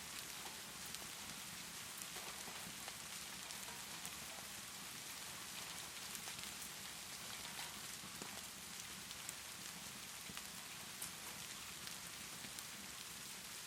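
Steady rainfall making an even hiss, dotted with small scattered crackles of a wood fire in a fireplace.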